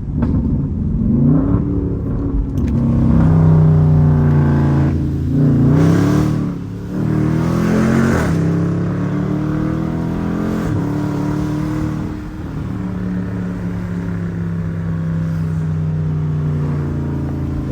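Jeep Grand Cherokee Trackhawk's 6.2-litre V8, running without its supercharger, accelerating in a short pull. The engine note rises and drops back several times as it shifts up through the gears, then settles into a steady cruise for the last few seconds.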